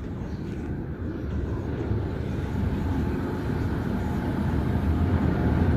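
Automatic car wash machinery running: a steady low rumble with hiss, growing gradually louder.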